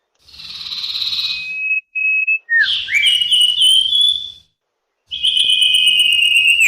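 Common iora (cipoh/sirtu) calling. A harsh hissing rasp is followed by clear whistles: two short level notes, a rising, stepped phrase, and near the end a long, slightly falling drawn-out whistle.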